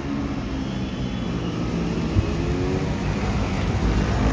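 Motorcycle engines running, their pitch rising and falling as they rev and ride, with a short knock about two seconds in.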